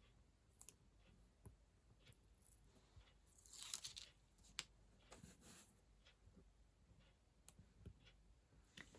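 Faint rustling and crinkling of paper and card being handled, with a few small clicks and two short swishes partway through.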